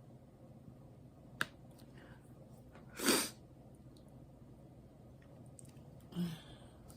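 Quiet room with a sharp click about a second and a half in, then a short, loud breathy exhale about three seconds in, and a brief low throat sound near the end.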